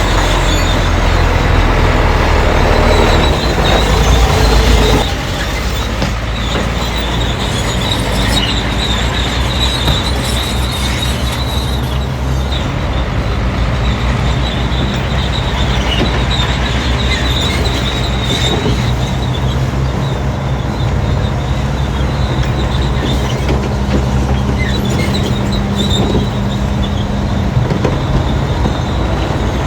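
Crawler bulldozer's diesel engine running under load, its steel tracks squealing and clanking. The sound is louder for the first five seconds, then drops a little and runs on steadily.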